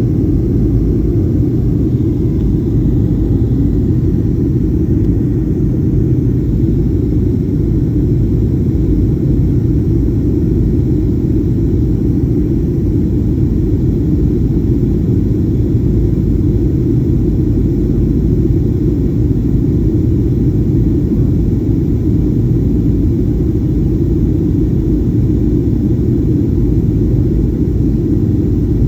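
Steady low rumble of a Boeing 737-800's engines and airflow heard inside the passenger cabin, unchanging throughout.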